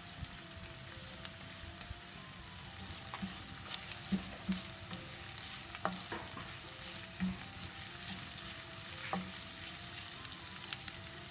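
Sliced aromatics and leaves sizzling in oil in a non-stick wok, stirred with a slotted spatula that scrapes and taps against the pan now and then.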